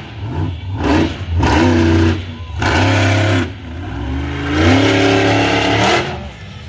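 Monster truck engine revving hard in about five bursts, the pitch climbing, holding and dropping with each one.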